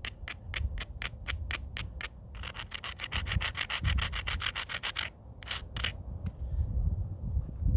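Edge of a flintknapping stone being abraded, with quick back-and-forth scraping strokes: a steady run at first, then a faster burst of strokes, then two last scrapes. This is the edge grinding done to prepare a striking platform.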